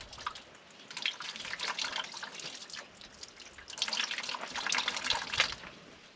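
Water splashing in two spells of a second or two each, with many small drips and clicks.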